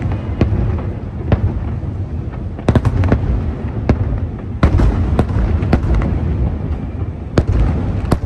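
Fireworks display: aerial shells bursting over a continuous low rumble. Sharp cracks come about every second, with several in quick succession a little before the middle and again about halfway through.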